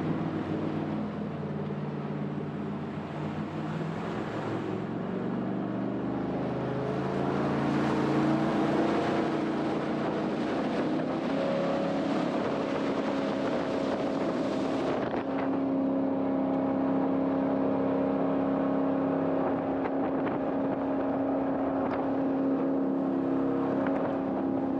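Jet boat engine running under way: its note climbs from about five seconds in as the boat speeds up, then holds steady for the rest of the run, over a constant rushing hiss.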